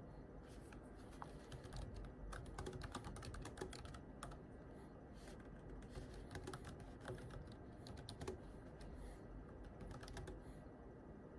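Quiet typing on a computer keyboard: soft key clicks coming in irregular bursts with short pauses between them.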